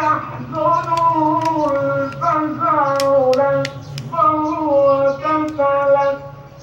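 Quran recitation: a single voice chanting long, drawn-out melodic phrases, with a few sharp clicks in the first half.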